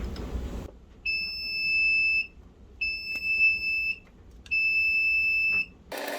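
An electronic alarm beeping three times: three long, steady, high-pitched beeps, each just over a second long, starting about a second in.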